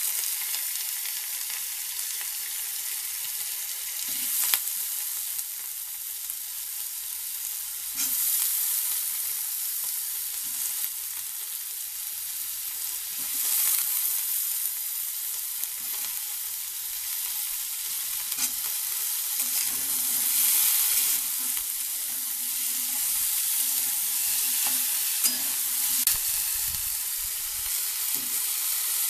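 Raw green banana pieces frying in hot desi ghee in a steel kadhai: a steady sizzle, with now and then the scrape and knock of a steel spatula stirring them.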